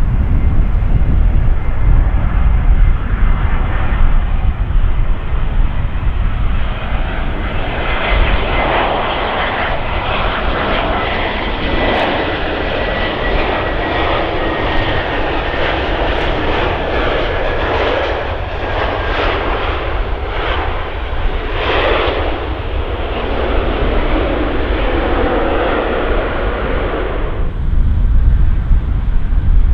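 Jet airliner passing close by: loud engine noise carrying a faint whine that slowly falls in pitch. The noise drops away abruptly near the end, leaving a low rumble.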